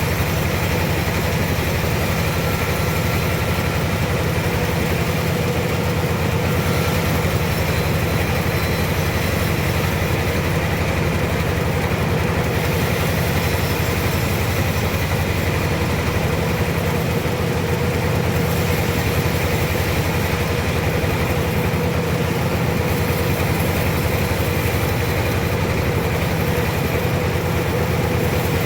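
Sawmill machinery running steadily, a low engine drone with a fast even pulse and a constant hum, unchanging throughout.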